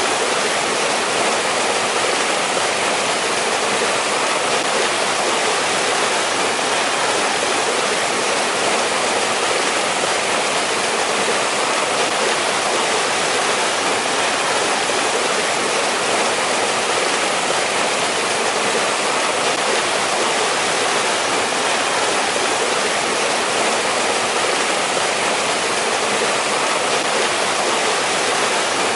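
Mountain valley stream rushing steadily over rocks, an even splashing hiss with no let-up.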